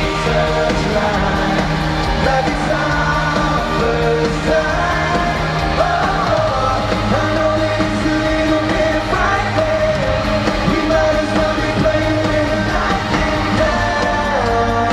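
Live pop band playing in concert, with drums, bass and guitar under long held, sliding sung notes and some yelled voices.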